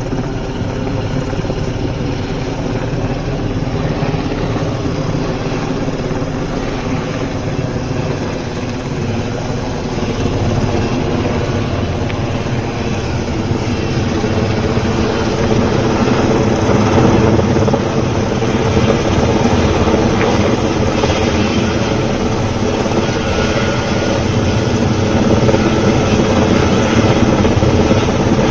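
Helicopter running close by: a steady loud rotor and turbine sound that grows louder from about halfway through.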